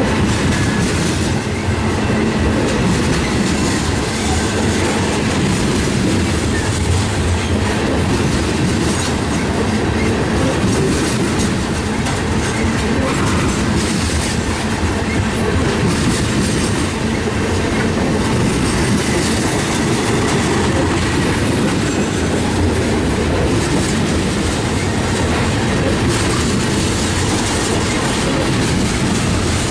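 Freight train tank cars rolling past close by: the steady, loud running of steel wheels on the rails.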